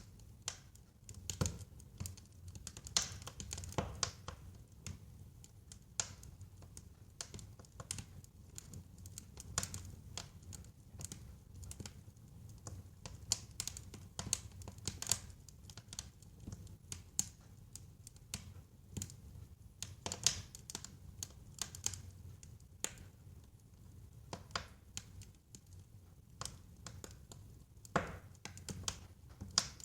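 Wood fire burning in a fireplace, crackling and popping irregularly over a low steady rumble of the flames, with a few louder pops.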